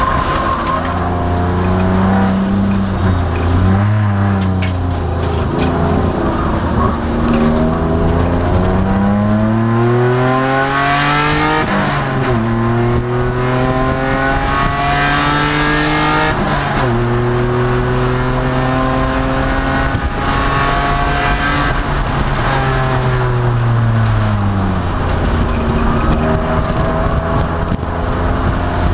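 2002 Nissan Maxima's V6 engine at racing pace, heard from inside the car. The revs climb and drop sharply twice as the driver shifts up, about twelve and seventeen seconds in. They hold steady, fall away about three-quarters of the way through, then climb again near the end.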